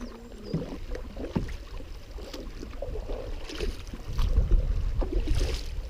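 Canoe being paddled: paddle strokes splashing in the river water, with wind rumbling on the microphone, strongest from about four seconds in.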